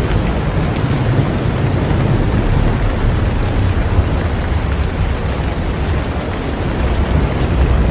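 Heavy rain falling on a boat: a steady, dense hiss of rain with a deep low rumble underneath.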